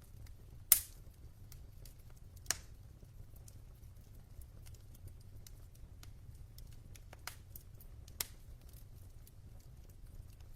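Wood fire burning in a fireplace, with a low steady rumble and scattered crackles and pops from the logs, the loudest sharp pop just under a second in and another about two and a half seconds in.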